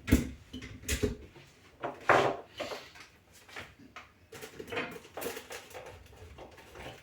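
Scattered knocks and light clinks of kitchen things being handled, a few every second or so.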